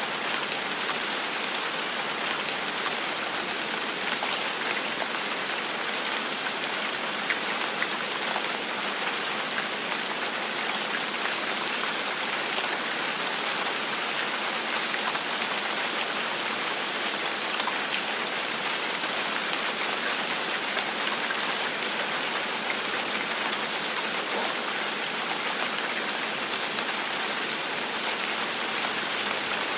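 Steady rain falling on a surface: an even hiss with scattered drops.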